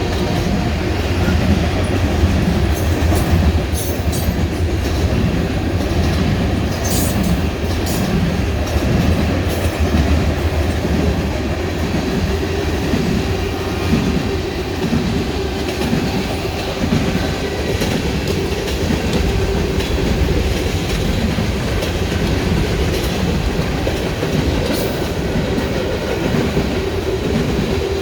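Norfolk Southern freight train rolling past, its cars' wheels clicking over the rail joints in a steady, even rhythm, with a faint steady whine from the wheels on the rail.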